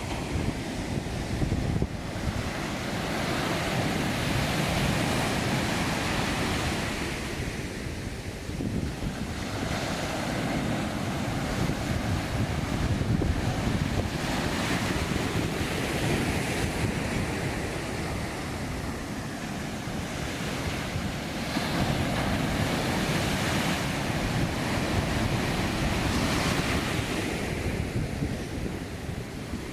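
Heavy surf from a mar de leva (a strong ground swell) breaking on a beach. It is a continuous rush of breaking water that swells and eases in long surges about nine seconds apart.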